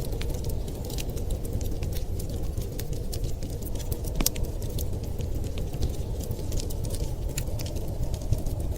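Wood fire crackling with many small, irregular pops, one sharper pop about four seconds in, over a steady low rumble.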